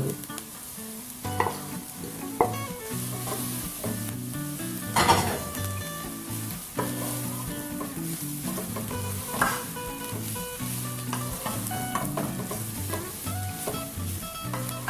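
Shredded chicken sizzling as it is sautéed in a pan with olive oil and onion, with a spoon stirring and scraping against the pan now and then.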